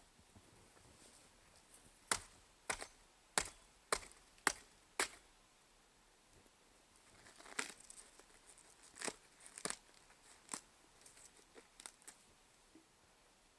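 Dry twigs and birch bark snapped and torn by hand for kindling: a run of six sharp snaps about half a second apart, then softer crackling and tearing with a few more snaps.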